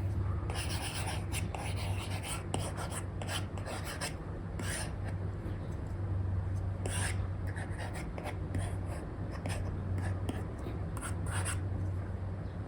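Apple Pencil 2 with an Elecom nib scratching across a paper-like matte screen film on an iPad in short, irregular sketching strokes. A steady low hum runs underneath.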